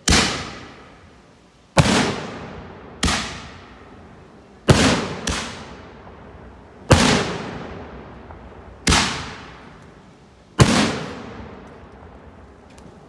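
Consumer aerial fireworks going off: eight sharp bangs at irregular gaps of one to two seconds, each echoing and dying away over about a second.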